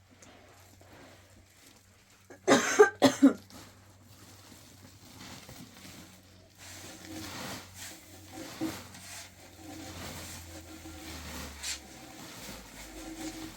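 A person coughing four times in quick succession, a few seconds in, over faint background noise.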